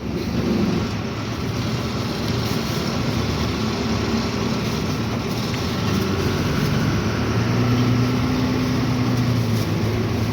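Truck's diesel engine running in slow traffic, its low note shifting a few times, over steady road and cab noise.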